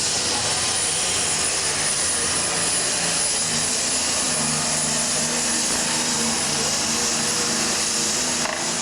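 Turbocharged diesel super stock pulling tractor running hard, a loud, steady engine noise with a high turbo whine over it; near the end the whine starts to fall as the engine comes off power.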